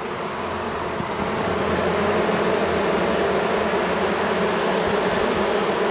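A mass of honey bees from a colony opened up in a house wall, buzzing in a dense steady hum. The hum swells over the first two seconds and then holds.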